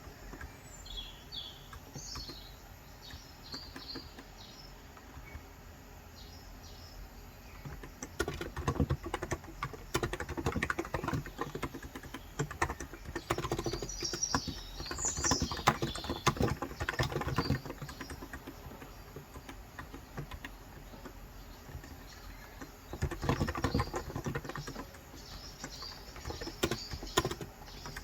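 Typing on a Cox Endeavor electro-capacitive (Topre-style) 35 g tenkeyless keyboard, in two long bursts of rapid keystrokes starting about a third of the way in, with a pause between. Small birds chirp in the background, most clearly in the first few seconds.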